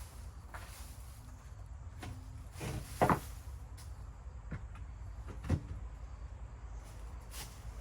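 A few scattered dull knocks and thumps, the loudest about three seconds in and another about five and a half seconds in, over a low steady rumble.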